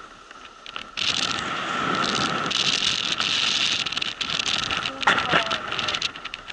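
Strong wind rushing over a motorcycle helmet and its microphone while riding, surging in gusts, with a steady high tone that fits the visor vibrating in the wind. About five seconds in there is a short sharp knock with a brief falling whistle.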